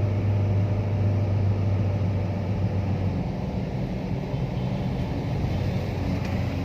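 Vehicle engine running with a steady low hum over road and water noise; the hum drops away about three seconds in.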